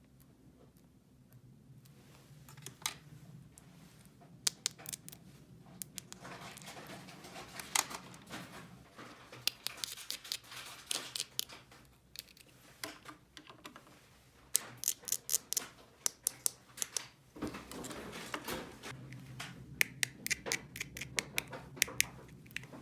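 Handling of small plastic toy pieces: scattered clicks and scraping, with runs of quick clicks about two-thirds of the way in and again near the end.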